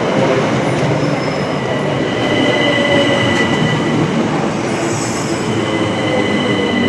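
Southeastern Class 375 Electrostar electric multiple unit running into the platform. There is a steady rumble throughout, and a steady high-pitched wheel squeal starts about two seconds in.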